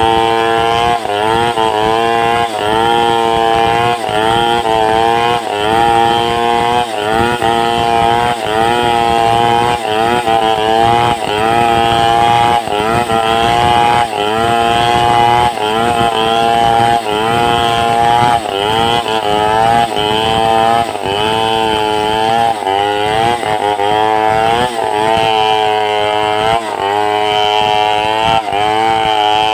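Two-stroke chainsaw running at high revs while ripping a log into boards, its pitch sagging and recovering about once a second as the bar is worked through the cut.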